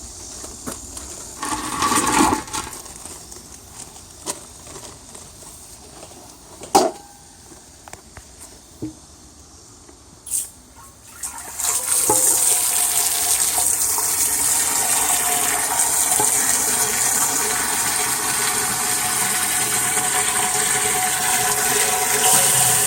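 Water rushing steadily into an earthenware jar, starting suddenly about halfway through and filling it; before that, a few scattered knocks and handling clicks.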